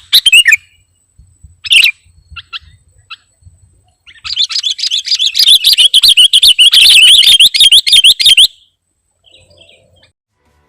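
Sooty-headed bulbul (kutilang) calling: a few short, separate notes, then about four seconds of rapid, unbroken chattering notes that cut off suddenly.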